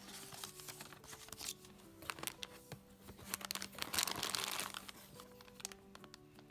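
Packaging crinkling and rustling as toy pieces are taken out of a box, most busily about four seconds in, over soft background music with slowly changing held notes.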